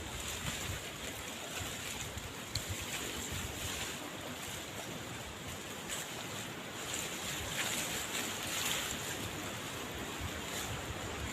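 Steady rushing noise of wind and heavy rain, with a few faint ticks.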